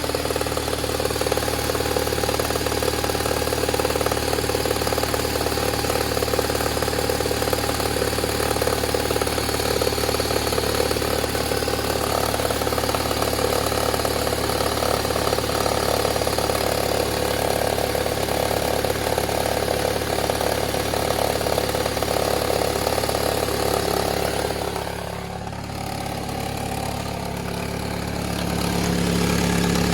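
Toyota 5S-FE 2.2-litre inline-four idling as it warms up from a cold start, with a fast crackling rattle over the engine sound. The crackle shows only when the engine is cold and fades as it warms; the owner cannot find its cause and has checked the timing belt. About 25 seconds in the sound drops, then a steady hum rises near the end.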